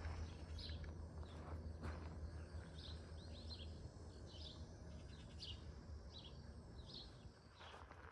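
Small birds chirping: short high chirps, one every half second to a second, over a faint steady low rumble.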